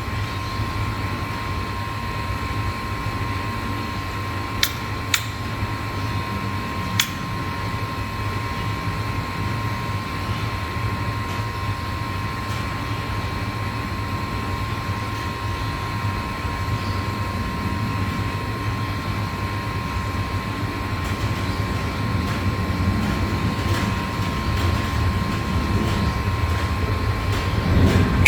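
Steady mechanical hum with a constant high tone, broken by three brief sharp clicks, two close together about five seconds in and one about seven seconds in; the hum grows a little louder near the end.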